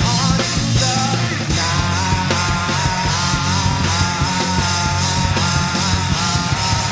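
Progressive hard-rock band recording: distorted electric guitars, bass and drums playing together, with a lead melody line of held, wavering notes over the top.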